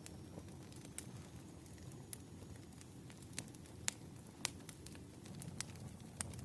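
Wood fire crackling: sharp pops and snaps about once a second over a low, steady rumble of burning logs.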